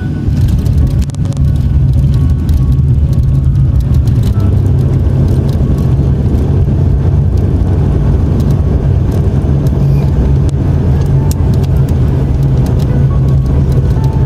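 Airliner cabin noise during landing: a loud, steady low rumble from the engines and airframe, with scattered rattles and knocks.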